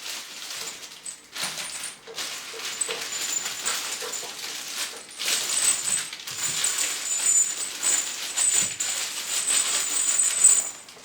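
Steel socket-head cap screws being handled, rattling and clinking against each other in a continuous run of small irregular clicks and rustles.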